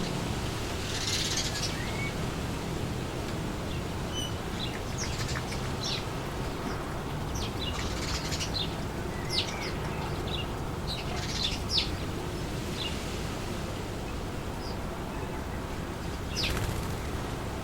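Steady wind blowing through trees, with small birds giving short, high chirps every second or so.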